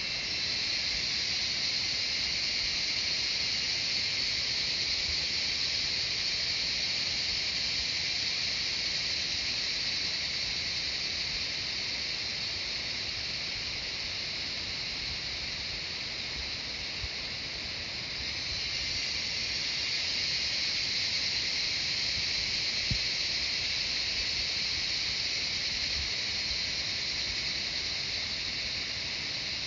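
A chorus of cicadas: a continuous, high-pitched buzzing hiss that dips slightly in the middle and swells back up about two-thirds of the way through.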